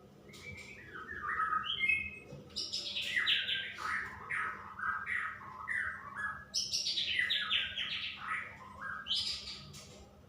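Female straw-headed bulbul (cucak rowo) calling in two rapid runs of quick falling notes, each run lasting a few seconds.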